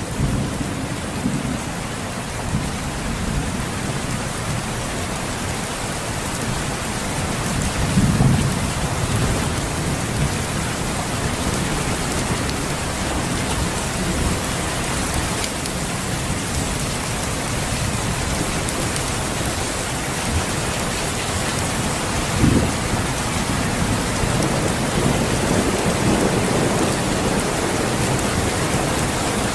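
Steady rain falling, with low rumbles of thunder. The loudest rumble comes about eight seconds in, and a sharper crack about twenty-two seconds in.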